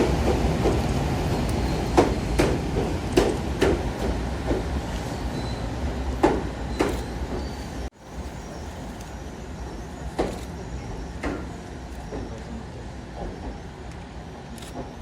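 Railcars of ex-Tokyu 8590 series stock rolling slowly, with a steady low rumble and sharp irregular clunks of wheels passing over rail joints and points, growing quieter as the train moves on.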